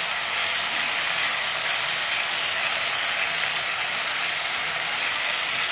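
Chopped water spinach frying in mustard oil in a pan: a steady sizzle with fine crackling.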